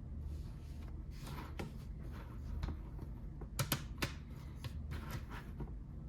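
Plastic Lego bricks being handled and sorted, with rustling and a few sharp clicks of pieces knocking together about halfway through.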